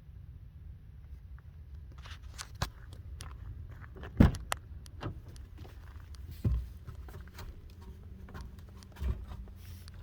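Steady low wind rumble on the microphone, with scattered sharp knocks and clicks from about two seconds in; the loudest knock comes about four seconds in.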